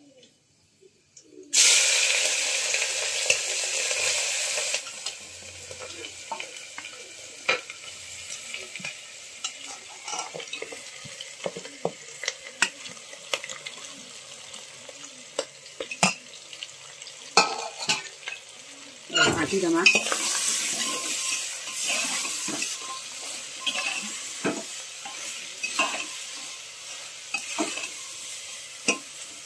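Goat intestine with onion, tomato and masala hitting hot oil in an aluminium pressure cooker: a sudden loud sizzle about a second and a half in that eases after a few seconds into steady frying. A metal spatula scrapes and clinks against the pot as it is stirred, with another louder burst of sizzling about two-thirds through.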